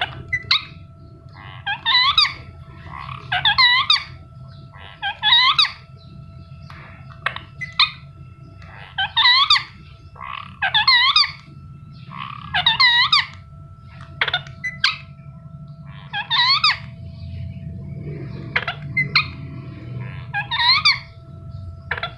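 Indian ringneck parrot calling: short, shrill chirps of a few quick rising-and-falling notes, repeated about every one to two seconds, over a faint steady hum.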